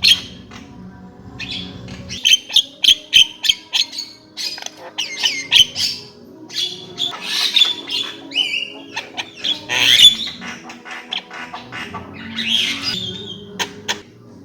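Javan myna (jalak kebo) singing: a varied run of harsh squawks, sharp clicks and gliding whistled notes, loudest about three seconds in and again around ten seconds.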